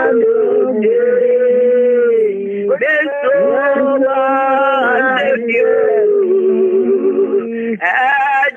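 A man singing a slow, chant-like song with long held notes, heard through a telephone line; one long note wavers near the end before a short break.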